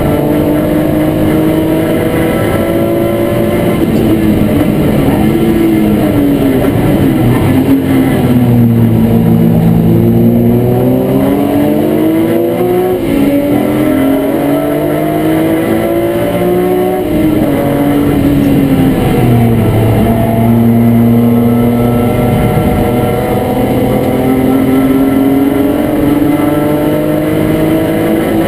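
BMW E36 M3 race car's straight-six engine heard from inside the stripped, roll-caged cabin while racing. The revs drop about a fifth of the way in, climb again, drop once more just past halfway, then rise steadily near the end.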